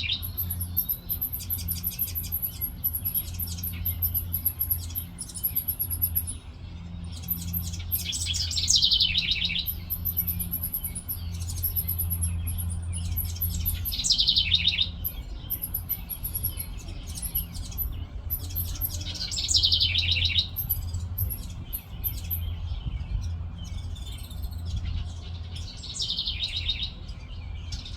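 Birds singing: one song that drops in pitch, repeated every five to six seconds, over thin high chirping, with a steady low hum underneath.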